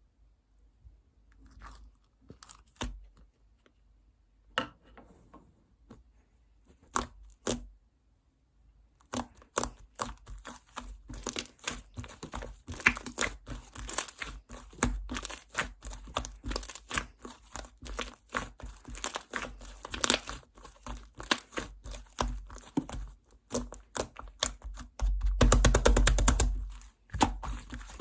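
Green slime being worked by hand, giving sticky clicks, pops and crackles. The sounds are sparse at first, then come thick and fast from about a third of the way in, with a loud run of rapid crackling near the end.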